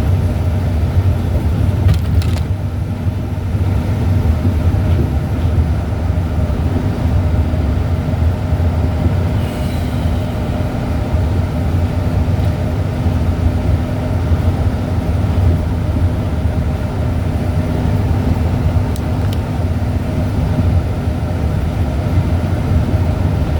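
Steady low drone of a running vehicle, engine and road noise, with a steady hum above it.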